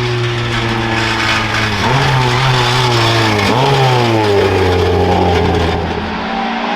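A hill-climb race car's engine is running loud. Its note falls steadily and jumps sharply back up twice, as it would with engine speed dropping and rising in gear changes, then fades toward the end.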